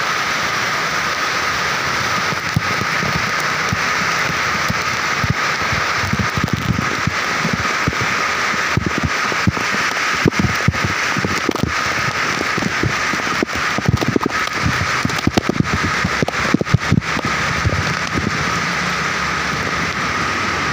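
Heavy rain pouring steadily. Through the middle, irregular close crackles and low thumps join it for about twelve seconds.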